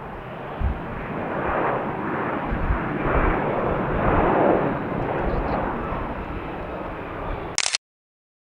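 Airplane engine noise as an aircraft passes, swelling over a few seconds and then easing off. It cuts off abruptly near the end.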